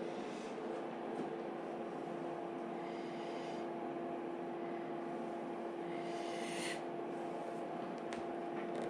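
Steady hum of a running motor, holding an even pitch throughout. Two brief bursts of soft hissing or rustling come about three seconds in and again just past six seconds.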